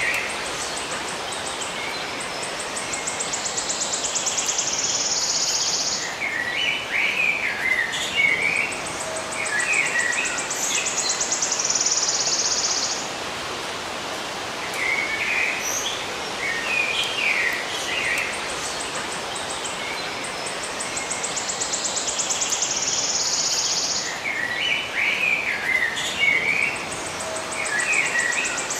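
Birds chirping in short clusters, taking turns with a high, rapid buzzing trill that lasts several seconds, over a steady background hiss. The same pattern comes round again about every ten seconds.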